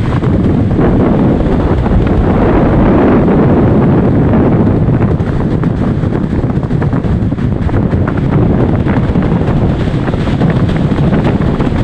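Storm wind buffeting the microphone: a loud, continuous rushing roar with constant flutter and gusts.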